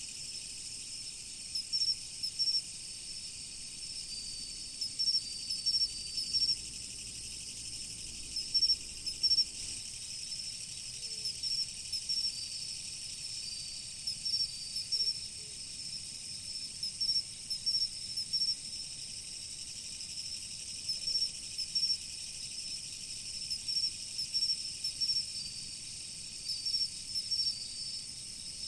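A chorus of autumn insects: a steady high-pitched trill, with groups of short, bright chirps coming every second or two over it.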